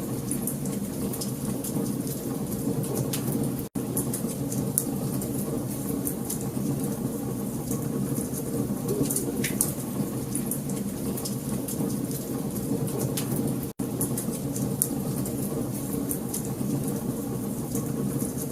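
Wood fire burning in a fireplace: a steady low rush of flame with many small crackles and pops from the burning logs. The sound drops out for an instant twice.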